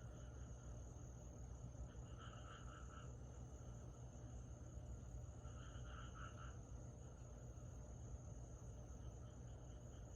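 Faint summer-night insect chorus: a steady high-pitched trill, with two short runs of lower pulsed chirps, a handful of pulses each, about two and six seconds in, over a low steady hum.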